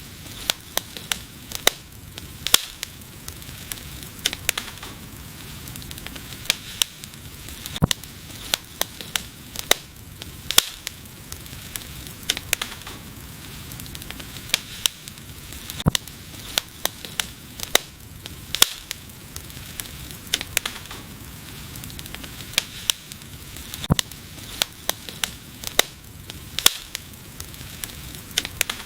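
Wood fire burning, with irregular sharp crackles and pops several times a second over a soft steady hiss and a quieter bubbling sizzle.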